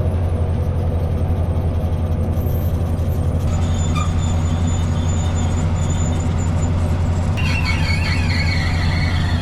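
A boat's diesel engine running steadily with a low, fast-pulsing drone. From about seven seconds in, a high squeal joins it and slides slowly down in pitch.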